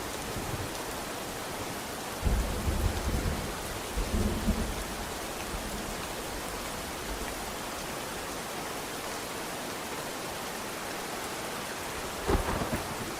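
Steady rain, with low rolls of thunder about two seconds in, again a couple of seconds later, and once more near the end.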